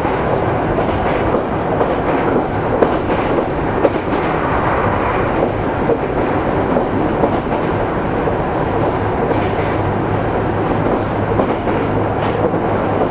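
Meitetsu 300-series train (set 317F) running on the Komaki Line: steady rolling noise with a low hum and scattered clicks from the wheels over the rails.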